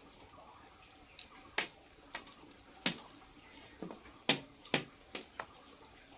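Batter-coated leaf frying in a wok over an open wood fire, with a faint sizzle and irregular sharp pops and crackles, several of them loud.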